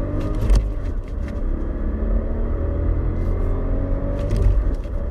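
Ford Focus 1.0 EcoBoost's turbocharged three-cylinder petrol engine accelerating hard from a standing start, its pitch climbing through the gears. The climb breaks for a gear change about half a second in and again a little over four seconds in.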